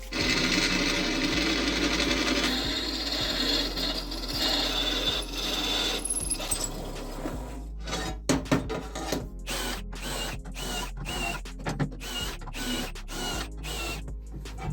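Workshop power tool running, then a run of evenly spaced sharp clicks or knocks, about two a second, through the second half.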